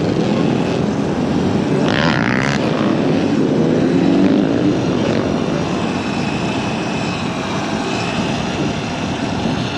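Dirt bike engines running and revving during a ride, with pitch sliding up and down, over steady wind rush. A brief higher-pitched burst comes about two seconds in.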